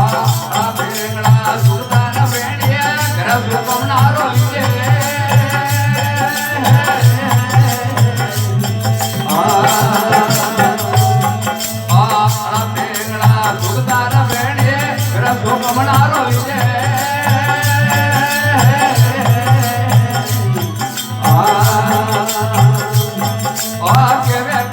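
Rajasthani devotional folk bhajan music between sung lines: a steady rhythmic low pulse and a rattling hand percussion beat, with a melodic instrumental line coming in and out.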